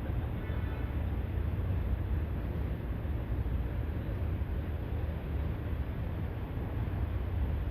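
Steady low rumble of harbour waterfront ambience, with wind on the microphone.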